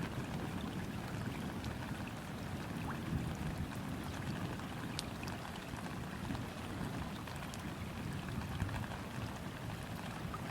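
Steady rain falling on a river's surface, with scattered individual drop ticks over a low, even wash of water noise.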